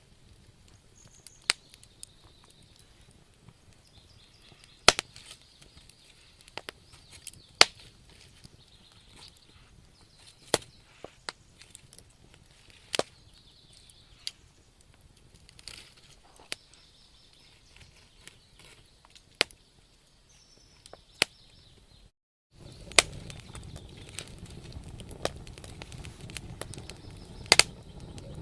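Wood fire in a fireplace crackling, with sharp, irregular pops and snaps a second or two apart over a faint hiss. About 22 seconds in the sound cuts out for a moment and comes back with a louder low rumble of the flames.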